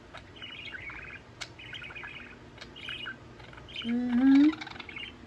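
Budgerigars chattering, a steady run of short warbling chirps. About four seconds in, a louder, low, rising voice-like call cuts in briefly.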